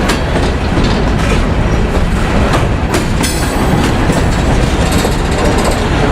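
Freight train rolling past close by: a steady heavy rumble of cars with wheels clicking over rail joints.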